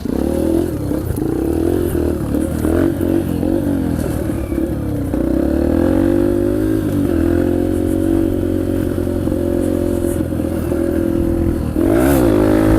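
Yamaha TT-R125 dirt bike's small single-cylinder four-stroke engine ridden over rough ground. The throttle opens and closes unevenly for the first few seconds, then holds steadier, and the revs rise near the end.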